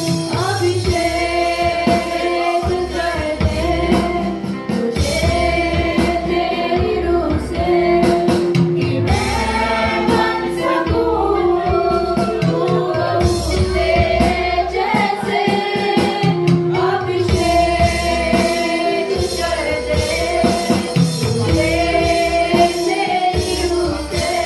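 A Hindi Christian worship song, with voices singing over a band and a shaken tambourine.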